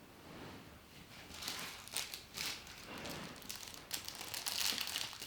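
Crinkling, rustling handling noise, as of plastic or paper being crumpled, starting about a second in and growing denser toward the end.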